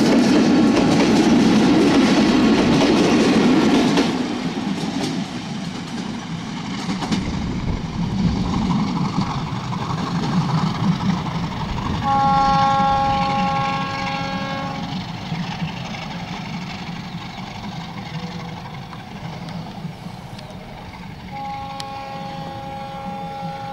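Modhumoti Express passenger train's coaches passing close by, wheels clattering over the rail joints, the noise dropping sharply about four seconds in as the last coach goes by. As the train moves away, its horn sounds as a steady chord of several tones, once for about three seconds near the middle and again near the end.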